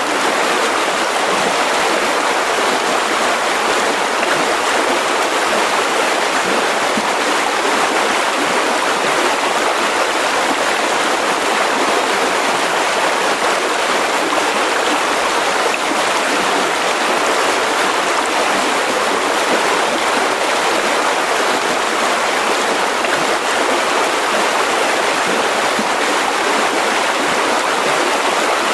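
Mountain river rushing over rocks: a steady, loud flow of water without any change.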